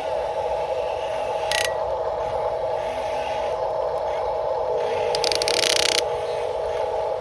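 Radio-controlled construction model's electric motor and gearbox whining steadily at one pitch, with a sharp click about one and a half seconds in and a short scrape about five seconds in.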